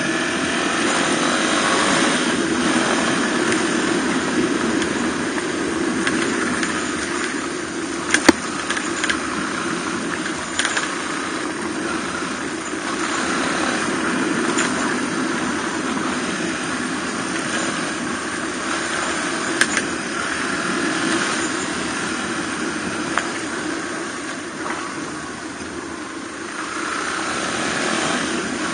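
Suzuki DR250R single-cylinder four-stroke trail bike engine running under way, its level rising and easing gently with the throttle, a little quieter for a few seconds near the end. A few sharp clicks cut through, a pair about eight seconds in and another about twenty seconds in.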